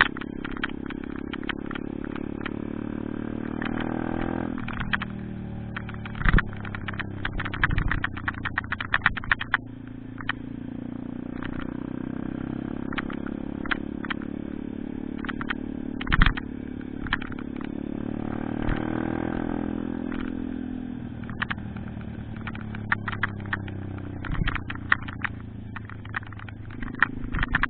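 Pit bike engine running while riding, its revs climbing twice and dropping back, with frequent sharp clicks and clatter over it.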